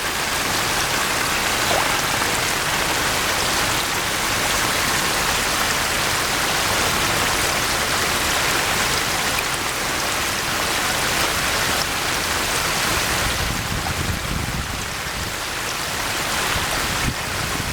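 Steady heavy rain falling, a dense even hiss with no distinct drops standing out. It softens slightly in the last few seconds.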